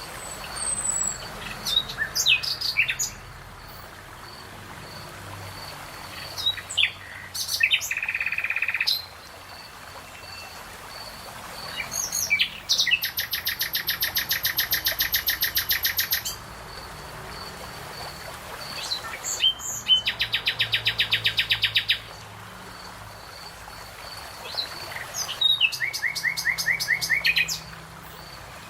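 Songbird singing in separate bursts of song every few seconds, several of them ending in a fast, even trill lasting up to three or four seconds. A faint, steady high-pitched pulsing note continues through the gaps.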